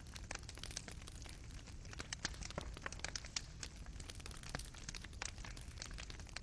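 Fire burning in a fireplace, crackling with irregular sharp pops and snaps from the burning coals, over a low steady rumble.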